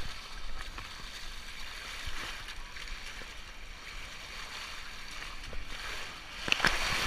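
Steady rush of flowing water, a hiss that grows louder near the end.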